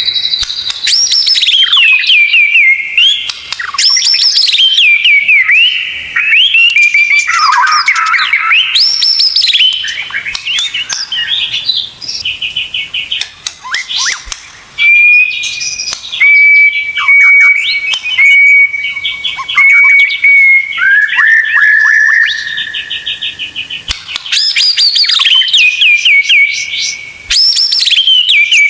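Recorded songbird song, loud and continuous: whistled notes sliding up and down, mixed with fast stuttering trills and a run of short, sharp repeated notes partway through. It is a tutoring recording of the kind played to white-rumped shamas to teach them song and call fill-ins.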